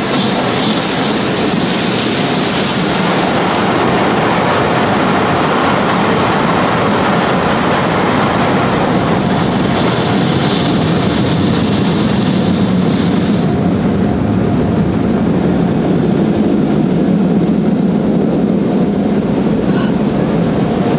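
Automated car wash heard from inside the car: water spray and machinery working over the body as a loud, steady rush. About two thirds of the way through the highest hiss cuts off suddenly, and a lower steady noise carries on.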